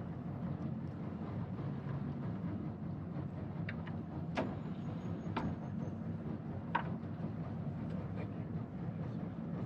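Jet boat's engine idling steadily while the boat is pulled in against a rock, with a few sharp knocks near the middle.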